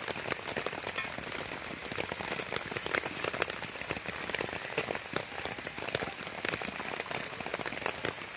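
Steady rain falling, with many sharp ticks of single drops striking nearby surfaces.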